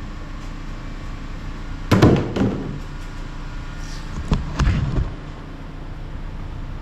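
Tossed object landing: a hard hit about two seconds in, then a sharp knock and a heavier thud with a short rattle about four and a half seconds in, over a steady low hum.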